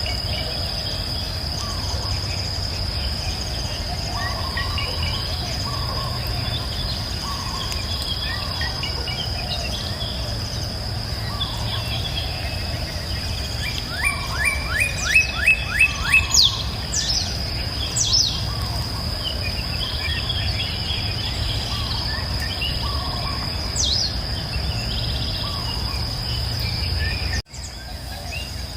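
Wild ambience: a steady high insect drone over a low rumble, with scattered bird chirps. About halfway through, a bird gives a quick run of about eight loud notes, followed by a few thin downward-sweeping calls.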